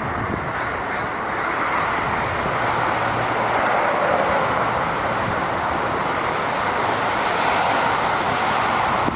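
Traffic hiss on a wet road: a steady rush that swells through the middle and eases near the end, with a faint low engine hum partway through.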